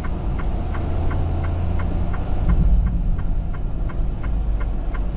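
Hazard-light flasher clicking steadily, about three clicks a second, over the low rumble of a semi truck's engine idling, heard inside the cab.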